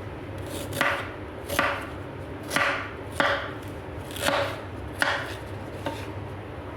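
Kitchen knife chopping fresh ginger into small pieces: six separate cuts, roughly one a second, with a faint seventh near the end.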